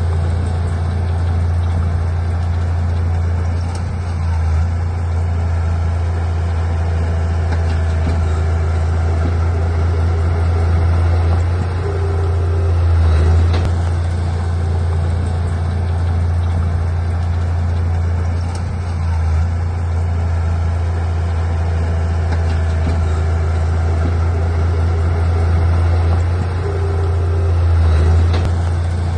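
Heavy earthmoving machinery's diesel engine running steadily, a deep drone that swells slightly in level a few times.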